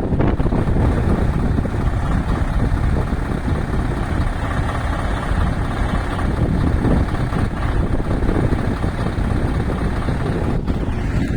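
Scania V8 truck engine running steadily with a low, even rumble.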